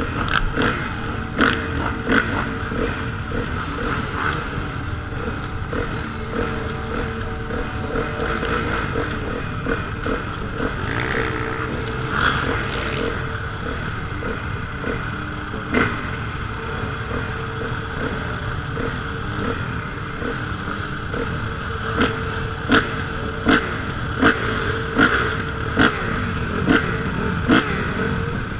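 Motocross dirt bike engine running under riding, with frequent sharp knocks and clatter. The knocks come more often and louder over the last several seconds.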